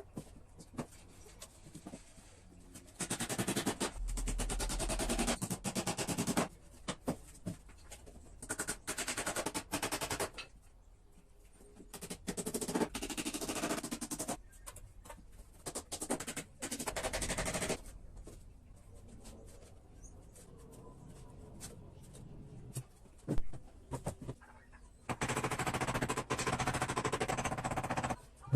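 Rapid mechanical hammering in several runs of one to three seconds each, with short pauses between them, like a power tool working in short bursts.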